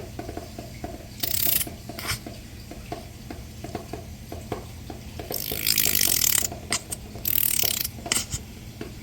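A spoon stirring and mashing sweet potatoes in a pot: regular clicks of the utensil against the pot, about three a second, broken by three louder hissing bursts, the longest about a second, in the middle.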